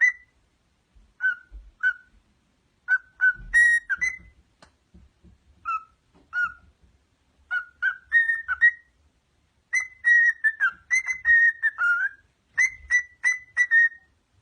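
A pet parrot whistling: short clear notes in quick runs of two to six, some sliding down in pitch, with brief pauses between runs.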